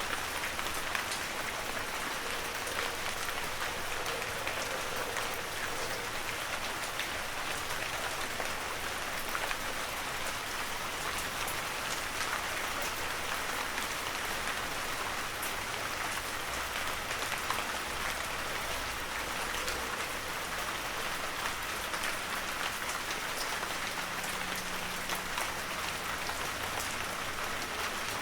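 Steady heavy rain falling on forest foliage and ground, a dense even hiss with many fine drop patters.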